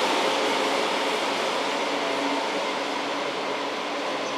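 E4 series Max double-decker Shinkansen train moving along the far track. Its running noise fades slowly as it moves off, with a few faint steady tones under it.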